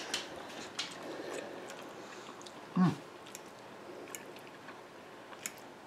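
A man chewing a mouthful of fettuccine noodles, with faint scattered clicks of a fork in a glass bowl. A brief voice sound comes about three seconds in.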